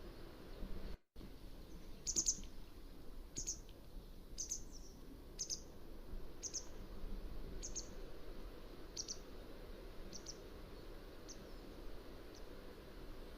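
Mountain wagtail calling: a series of about ten short, high call notes, roughly one a second, growing fainter toward the end, over a steady low background hiss. The sound cuts out completely for a moment about a second in, just before the calls begin.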